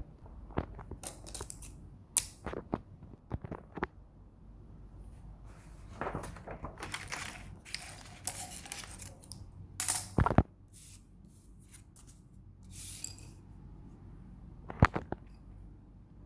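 Crochet materials being handled: scattered sharp clicks and snips, the loudest about ten seconds in and near the end, with stretches of rustling in between.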